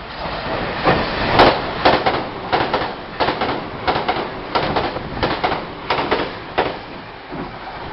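Passing train's wheels knocking over a rail joint in quick paired clacks, one pair per bogie, repeating steadily as the cars go by.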